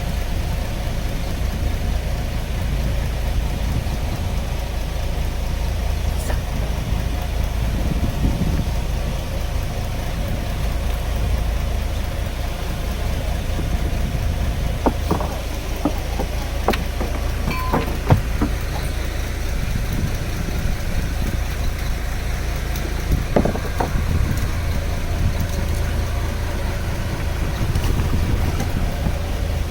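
A fishing boat's engine running steadily, a low drone, with a few short knocks and clicks about halfway through and again later on.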